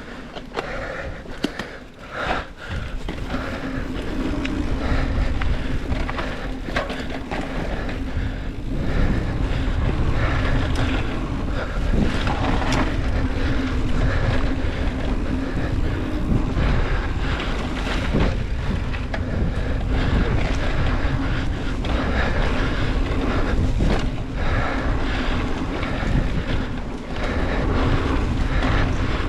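Wind rushing over a mountain bike rider's camera microphone at speed, building over the first few seconds, with many short knocks and rattles of the bike going over rough trail.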